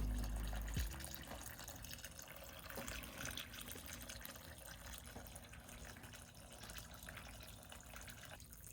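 Faint, steady trickle of water from an illusion spigot fountain, pumped water pouring out of the spigot into a ceramic bowl of rocks.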